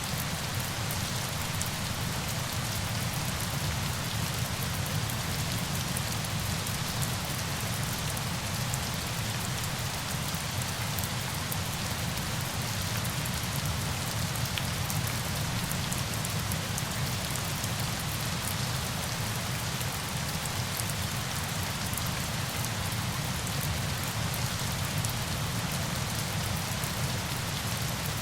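Steady falling water: an even rushing hiss with a low rumble underneath and fine drop-like ticks, unchanging throughout.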